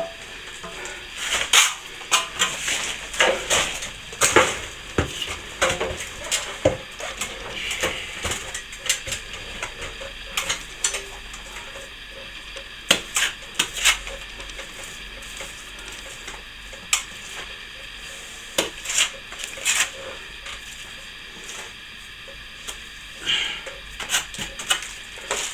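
Steel plastering trowel and hawk at work on a chimney breast wall: irregular metal clicks and taps with scraping strokes against wet plaster. They are busy for the first ten seconds or so, then come more sparsely.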